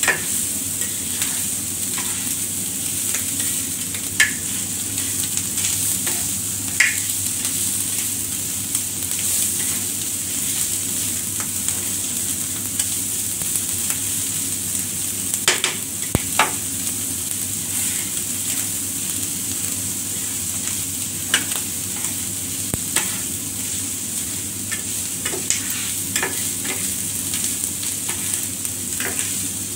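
Chopped onion, egg and chicken sizzling on a hot flat-top griddle, stirred with a metal spatula that scrapes and clacks against the steel plate every few seconds.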